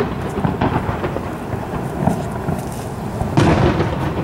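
Aerial fireworks shells bursting, each boom trailing into a long rolling rumble. A loud boom comes about three and a half seconds in, with smaller sharp reports between.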